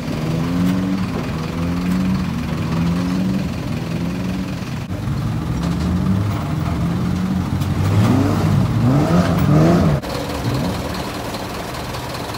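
A car engine running and being revved, its pitch stepping up and down, with a few quick rev blips near the end; then it changes suddenly to a lower, steadier engine drone.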